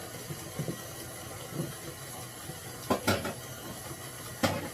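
Stand mixer running on a low speed, churning cultured sour cream towards butter, with a faint steady hum. Short knocks and clatters of kitchenware about three seconds in and again near the end.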